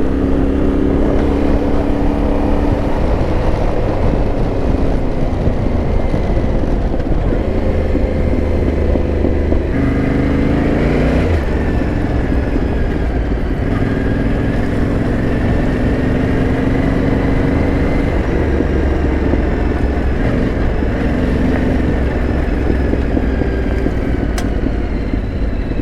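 Yamaha Ténéré 700's parallel-twin engine running steadily under way, its note rising and falling with the throttle, with a clear change in pitch around ten seconds in. A short sharp click sounds near the end.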